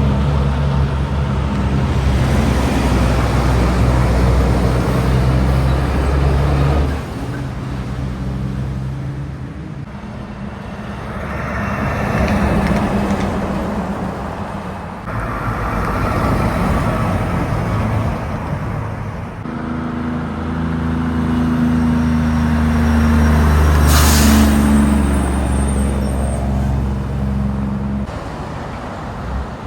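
Heavy diesel trucks and other traffic passing on a highway, their engines running with a steady low drone that swells and fades as each vehicle goes by. About three quarters of the way through, a truck's air brakes give a short, sharp hiss.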